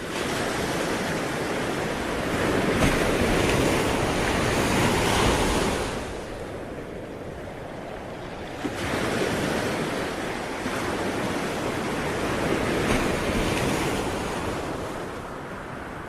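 Sea waves surging in and washing back: two long swells of surf, the first building and dying away about six seconds in, the second rising soon after and ebbing near the end.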